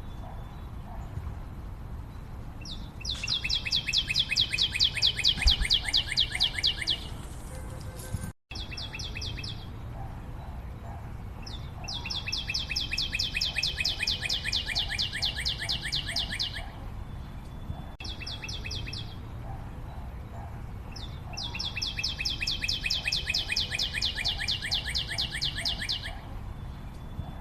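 A bird's fast, high trill lasting a few seconds, repeated three times about every nine seconds, each time after a short note.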